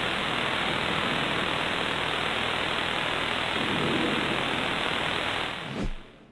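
A steady, even vehicle-like rumble and hiss that fades out just before the end.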